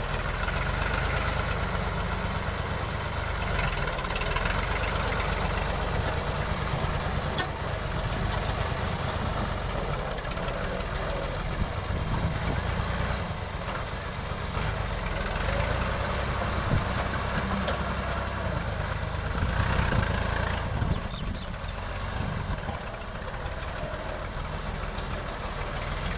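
New Holland Ghazi tractor's diesel engine running steadily.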